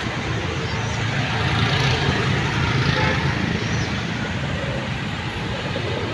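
A steady low rumble with a hiss over it, unbroken outdoor background noise of the kind road traffic makes.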